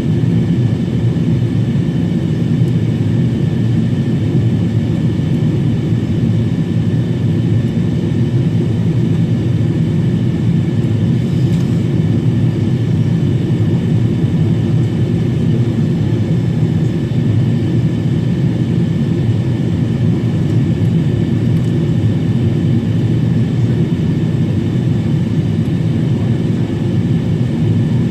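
Steady cabin noise of a Boeing 777-300 descending on approach to landing: a constant rumble of engines and airflow heard from inside the cabin, with faint steady higher tones above it.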